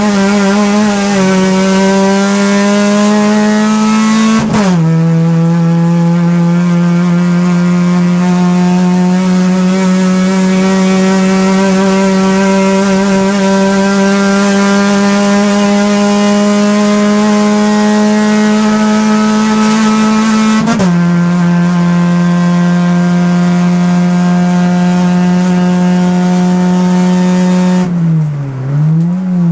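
Race car engine at high revs, heard from inside the cockpit, its pitch climbing slowly through each gear with sharp drops at the upshifts about four and a half seconds and twenty-one seconds in. Near the end the revs dip and rise several times in quick succession.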